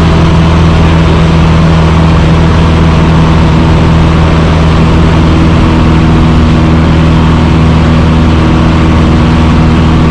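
Cessna 150's four-cylinder Continental O-200 piston engine and propeller running in flight, a loud steady drone that holds one pitch throughout.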